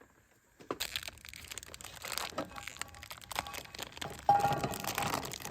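Crinkling and rustling, as of packaging being handled, starting just under a second in and getting louder about four seconds in.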